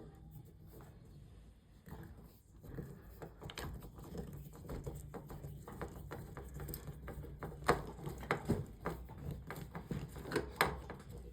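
Irregular small clicks and scrapes of a hand screwdriver turning screws into a wooden picture frame, with a few sharper clicks about two-thirds of the way through and near the end.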